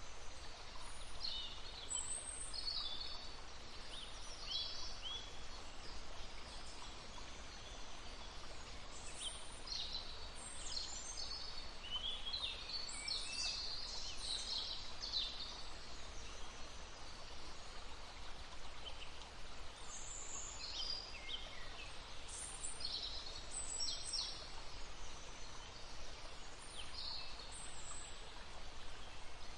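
Small songbirds singing in short high chirps and trills over the steady rush of a babbling stream.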